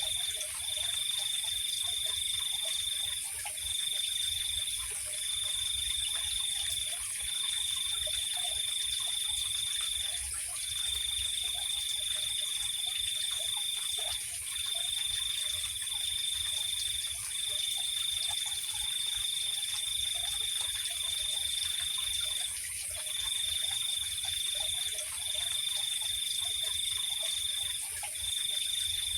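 Night insect chorus: a cricket trills at one high pitch, breaking off briefly every second or few, over a steady, even higher-pitched drone of more insects.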